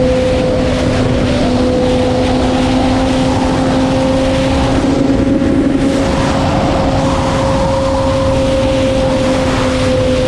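Sport motorcycle engine running at a steady, high engine speed with a steady pitch, over a constant rush of wind noise.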